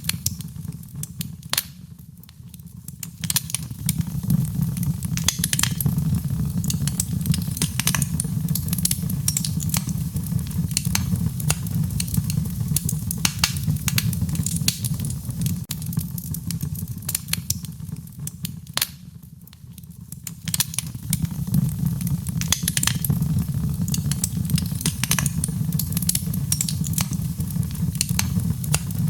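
Wood fire crackling: many irregular sharp pops and snaps over a steady low rumble of burning, which dips briefly twice.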